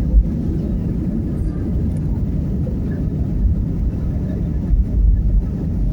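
Airplane engines and airflow making a steady low rumble during takeoff, with a few stronger low surges.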